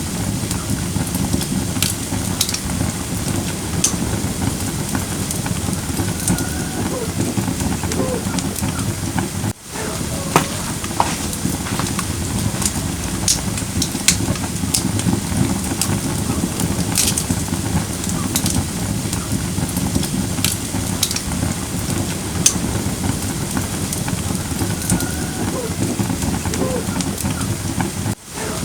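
Split firewood burning in a camping fire brazier: a steady low rumble of flame with scattered sharp pops and crackles, and now and then a faint wavering hiss. The sound cuts out for an instant twice.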